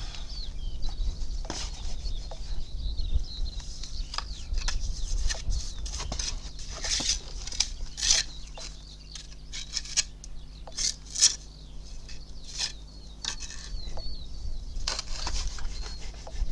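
Metal trowel working lime mortar into a stone wall: irregular scrapes and sharp clicks of steel against stone and mortar, busiest in the middle of the stretch.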